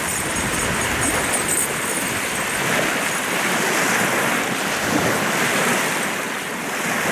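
Waves washing onto the shore in a steady, surging rush of water.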